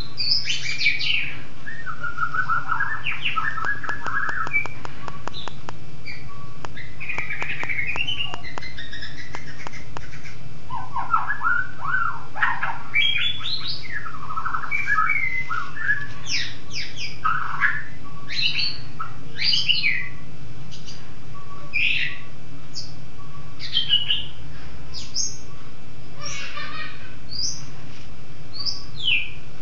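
A songbird singing a long, varied run of chirps, whistles and quick rising and falling notes, over a steady low hum.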